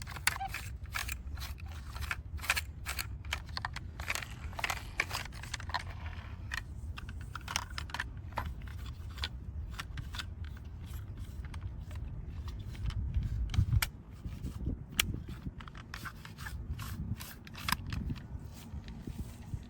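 Rapid, irregular sharp clicks and light scraping of small hard parts over a steady low rumble.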